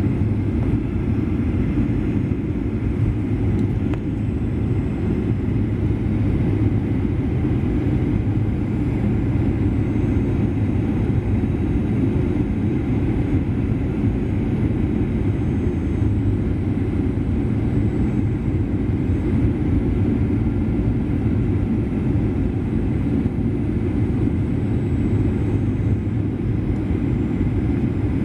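Cabin noise of a Boeing 737-800 from a window seat: a steady low rumble of its CFM56-7B jet engines and rushing air, with no change in level.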